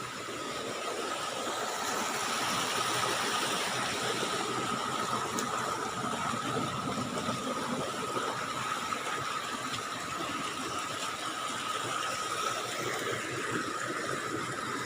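Water rushing over a small irrigation dam: a steady noise that swells over the first couple of seconds and then holds. A thin, steady high tone runs through it.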